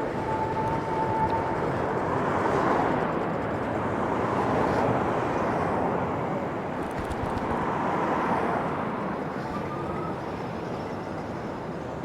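Road noise heard from a moving e-bike: a steady rush of wind and traffic, with vehicles swelling past about three times.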